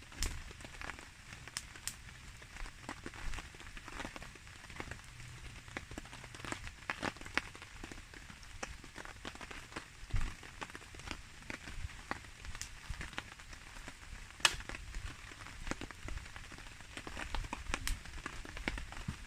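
Steady rain falling, with a wood campfire crackling in irregular sharp pops and clicks; the loudest pop comes about fourteen seconds in.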